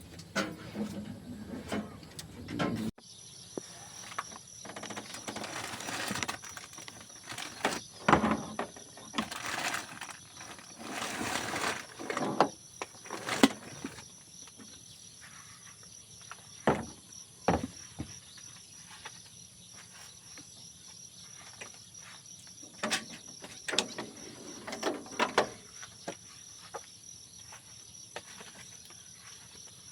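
Insects shrilling steadily on two high pitches, with scattered short knocks and clicks. A low rumble in the first few seconds cuts off abruptly.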